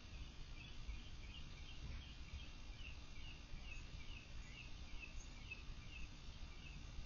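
Faint backyard ambience: a bird repeating short chirps that fall in pitch, about two a second, over a steady low rumble.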